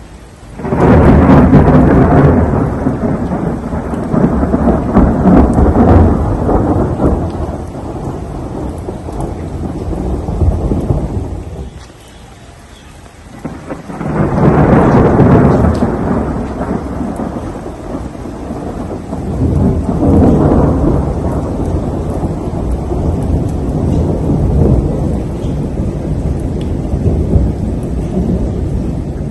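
Thunder rumbling in a rainstorm, with rain falling underneath. A long peal breaks about a second in and dies away after about eleven seconds. A second long rumble starts around fourteen seconds, swells again near twenty and runs on.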